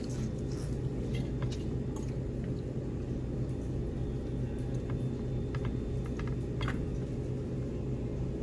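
People eating: soft chewing with scattered small clicks and ticks of utensils and dishes, over a steady low hum.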